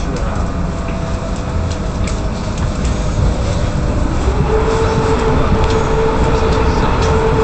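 Electric suburban train running, heard from inside the carriage: a steady low rumble from the wheels and track with light rattles, and a whine that rises in pitch about four seconds in and then holds steady.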